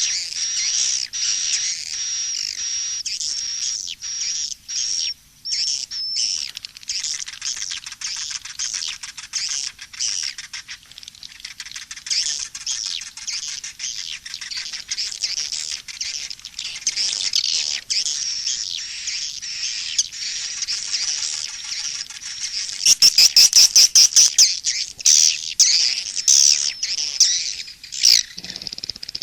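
Swiftlet calls from a looped lure-sound track: dense, high twittering and chirping with no letup. A thin high tone is held for the first few seconds, and near the end comes a run of loud, rapid clicks.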